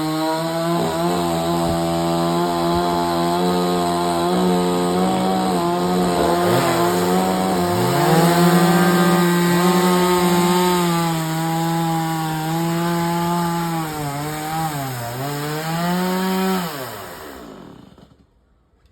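Chainsaw engine running at high revs while cutting wood, its pitch sagging briefly a few times under load. Near the end the revs fall away and the saw goes quiet.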